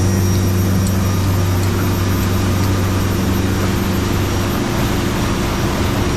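Boat engine running steadily, heard on board: a constant low hum over a rushing wash of noise, the lowest part of the hum thinning about four and a half seconds in.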